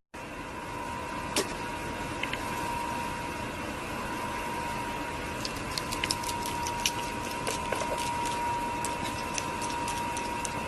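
A steady machine hum with a thin steady whine, and scattered light clicks and taps from about halfway through.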